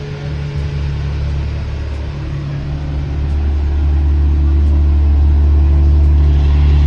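Car engine running with a steady low drone, growing louder about three to four seconds in.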